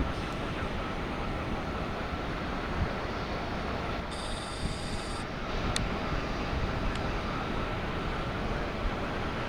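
Steady jet airliner noise: a rushing hum with faint steady whining tones. About four seconds in, a brief high-pitched tone sounds for about a second.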